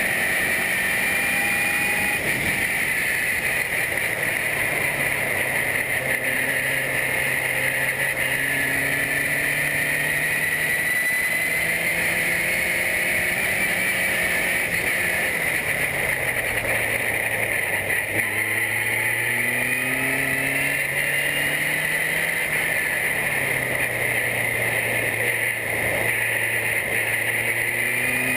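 Formula car engine running hard on track, its pitch climbing and dropping several times as it accelerates and slows through gear changes, over a steady high hiss.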